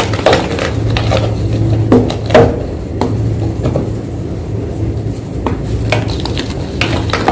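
Fresh white gym chalk being crushed, a run of irregular dry crunches and crumbles, the loudest about two seconds in, over a steady low hum.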